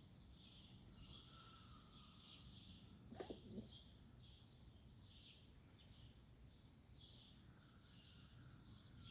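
Sparrows chirping faintly, short chirps repeating one or two a second, over a low background hum. A brief louder low sound with a click comes about three seconds in.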